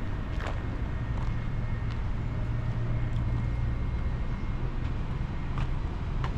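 A steady low mechanical rumble with a few faint, sharp clicks scattered through it.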